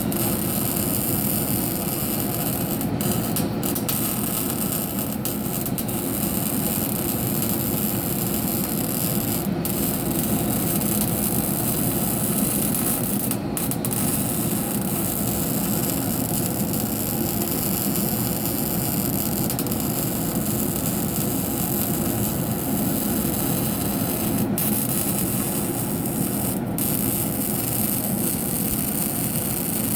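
MIG welding arc on steel, a steady frying crackle that runs on with only a few split-second breaks.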